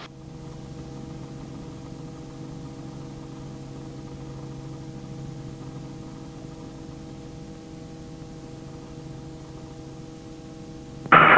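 Steady, unchanging hum with several fixed pitches from a Robinson R44 helicopter in a low hover, heard in the cockpit audio feed.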